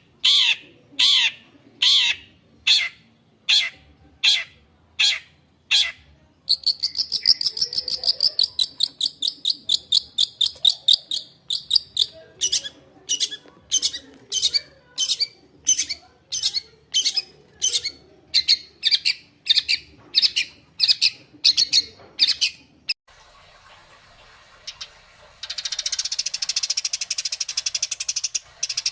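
Songbird calling: a run of sharp, high chirps about twice a second, a rapid high trill for several seconds, then slower repeated chirps. After a sudden break near the end comes a dense, high buzzing chatter.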